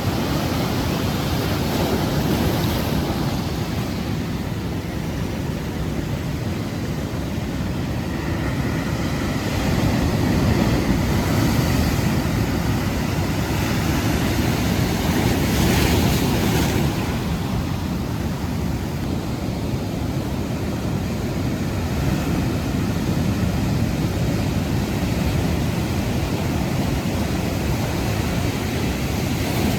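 Strong ocean surf breaking, with white water surging near high tide and wind buffeting the microphone. The roar swells louder in the middle, with a sharp hiss of spray just past halfway.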